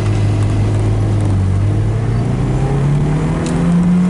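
The turbocharged 1.6-litre 16-valve four-cylinder engine of a 1991 Lotus Elan pulling under acceleration, heard from inside the cabin. It runs steady at first, then the revs climb steadily from about halfway through.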